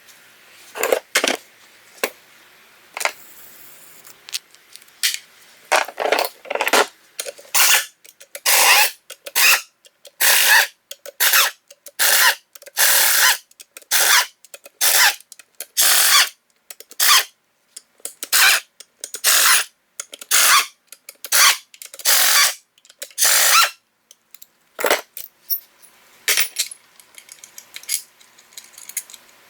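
Power tool run in a long series of short trigger bursts, about one a second, loosening bolts during a transmission teardown.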